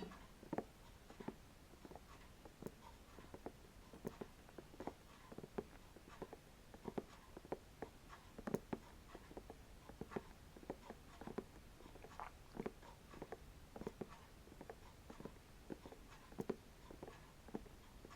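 Fingers tapping on the rough rind of a whole pineapple: quiet, short, dry taps, about two or three a second in an uneven rhythm.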